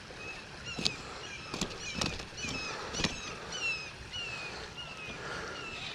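A small bird calling a quick series of short, high, falling chirps, over a few sharp clicks.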